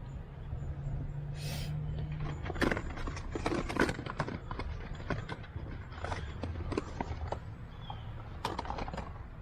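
Irregular clicks and knocks from handling the motorcycle's oil drain bolt and tools as the engine oil drains, after a steady low hum that stops after two seconds or so.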